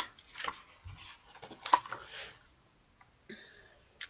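A few faint, short rustles and light clicks, spread out with pauses between, from a paper picture book being opened and its pages handled.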